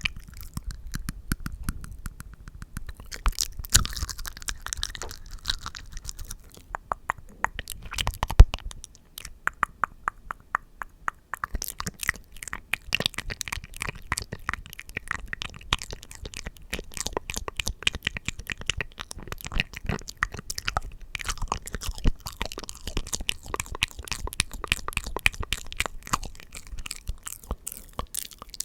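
ASMR mouth sounds: rapid, wet clicks and smacks of lips and tongue, in dense runs with a short lull about a third of the way through.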